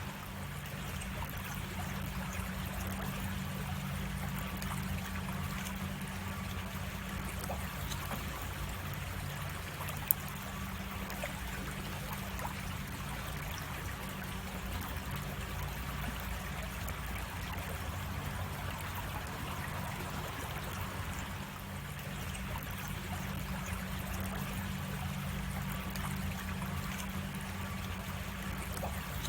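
Creek water flowing steadily over rocks, a continuous rushing with trickling. One sharp click about ten seconds in.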